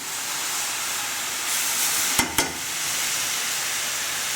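Onion, carrot and grated mushroom frying in a hot pan over high heat, a steady sizzle as their moisture evaporates. Two light knocks a little past halfway.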